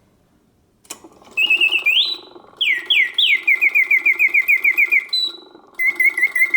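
Vintage Karl Griesbaum singing bird cage automaton playing its birdsong. After a click about a second in, its bellows-blown whistle warbles, sweeps up and down in pitch, then runs into fast trills of about six notes a second. There is a short break near the end, and the clockwork mechanism whirs underneath.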